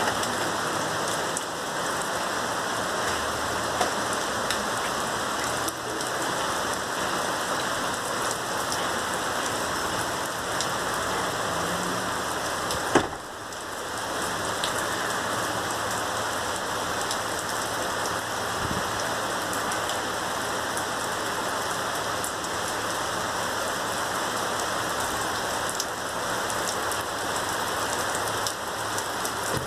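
Heavy thunderstorm downpour: a steady hiss of rain pouring down, with one sharp knock about halfway through.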